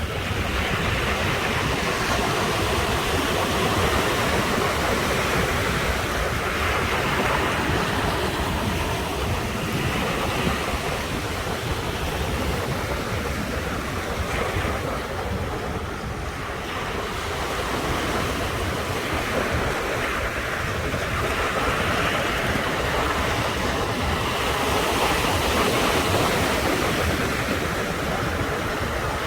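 Ocean surf washing onto the shore in a continuous rush that swells and eases every few seconds, with a low wind rumble on the microphone underneath.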